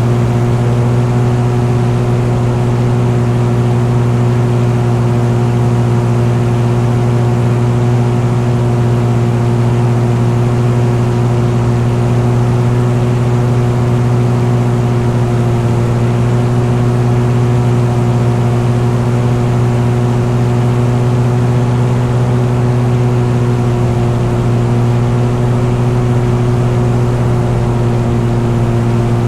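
An engine running steadily at an even speed, a constant loud drone with no change in pitch.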